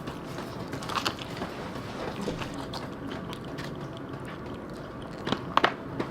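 A person chewing a mouthful of taco close to the microphone, with a few sharp clicks about a second in and near the end.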